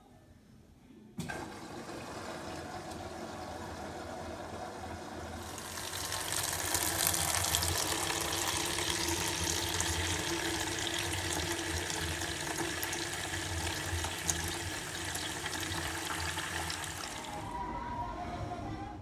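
Water running from a kitchen tap into a sink. It comes on suddenly about a second in, runs harder from about five seconds and eases off shortly before the end.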